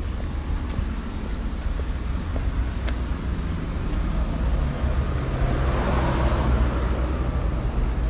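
Roadside outdoor sound: a vehicle passing, its noise swelling in the second half, over a steady high insect trill and a constant low rumble.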